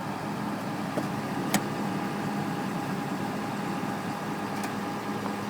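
Tow truck's diesel engine idling steadily with an even hum, and a single sharp click about a second and a half in.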